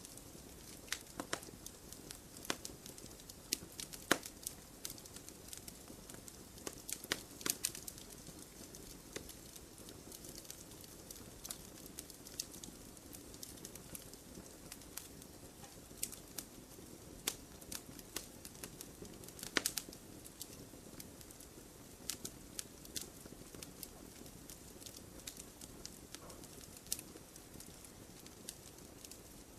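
Campfire burning, wood crackling and popping at irregular intervals over a low steady hiss, with a few louder pops.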